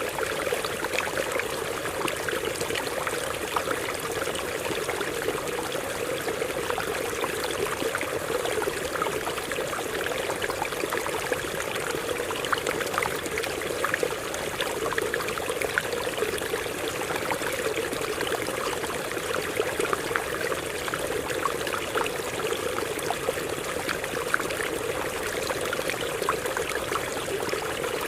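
Stream water running and splashing over rocks, a steady rushing with fine trickling and bubbling throughout.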